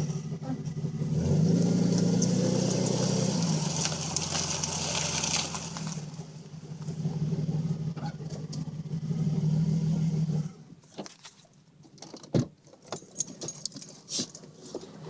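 Dodge Intrepid's 2.7-litre V6 idling and revved briefly about a second in and again around eight seconds, then switched off about ten seconds in; running without the timing chain rattle, which Marvel Mystery Oil in the oil has quieted. After it stops, a few clicks, a sharp knock and a light jingle of keys.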